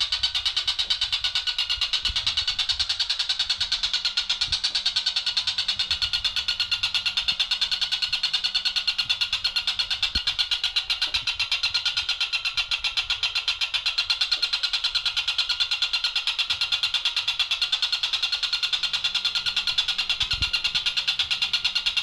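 Tengkek buto kingfisher calling, a rapid, even chatter of short high notes repeated several times a second without a break.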